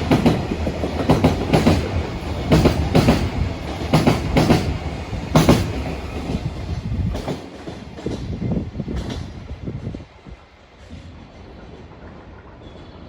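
A train passing on the rails, its wheels clacking over the rail joints in quick pairs over a steady rumble, then fading away over the second half.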